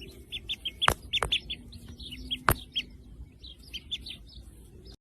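Small birds chirping in quick runs of short, high chirps, with three sharp clicks in the first half.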